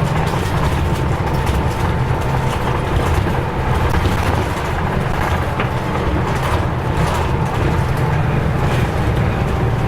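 Nissan Diesel U-UA440LSN city bus's diesel engine running steadily, with a low, even hum and rumble of the moving bus.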